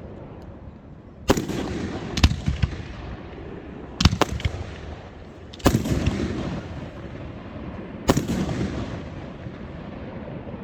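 Fireworks exploding: five loud bangs spaced about one and a half to two and a half seconds apart, each followed by a few smaller pops and a rumbling echo that dies away.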